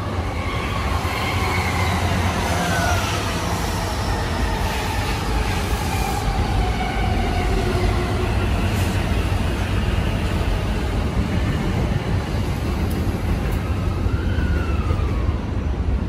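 Electric commuter trains running on the platform tracks: a steady rumble of wheels on rail, with several gliding motor whines as an E233-series train runs by on the adjacent track and the E233-series train at the platform pulls away.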